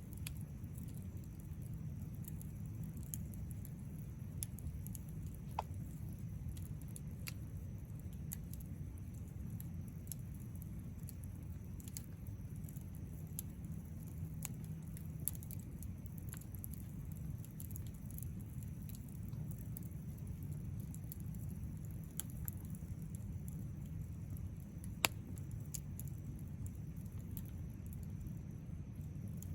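Wood campfire burning with a steady low rumble of flame and scattered sharp crackles and pops of burning wood, one louder pop near the end.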